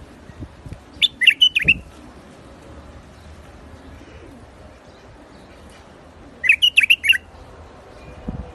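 White-eared bulbul singing: two short phrases of quick notes, about five seconds apart.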